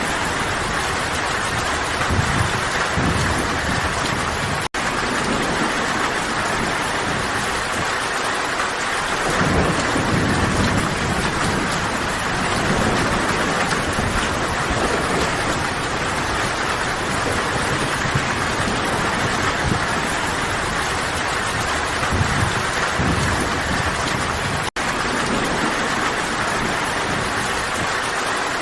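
Steady, heavy rain falling, a continuous hiss with low rumbling swells rising under it now and then. The sound cuts out for an instant twice, about five seconds in and again about twenty-five seconds in.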